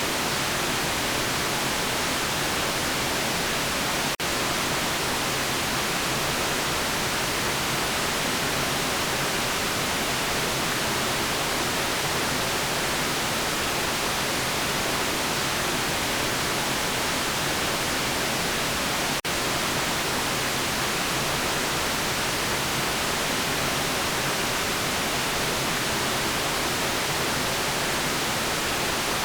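Steady synthetic white noise, an even hiss spread across all pitches and strongest in the treble. It briefly drops out twice, sharply about four seconds in and slightly about nineteen seconds in.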